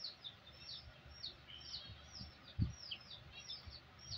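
Small birds chirping continuously in the background, quick falling chirps about two or three a second. A single low knock about two and a half seconds in.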